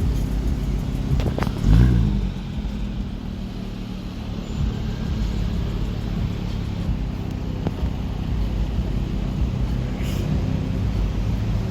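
Car engine running with a low, steady exhaust note, and a brief louder surge about two seconds in.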